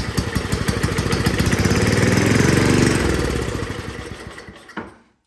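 Tecumseh 5 hp snow blower engine running on starting fluid. It fires rhythmically, speeds up, then slows and dies out about five seconds in. Running only on the fluid shows it has spark, and points to the carburetor, which has old gas sitting in it.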